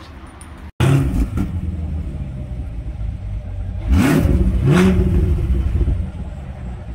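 Chevrolet C8 Corvette Stingray's 6.2-litre LT2 V8 through its performance exhaust, idling with a low rumble and blipped twice in quick succession about four seconds in. The sound starts abruptly after a brief gap about a second in.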